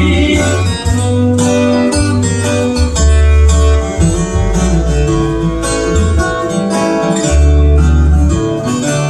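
Instrumental ending of a country-gospel song: acoustic guitar and other plucked strings over a steady bass line.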